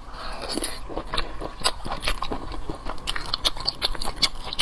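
A person chewing and biting food close up: many quick, irregular clicks.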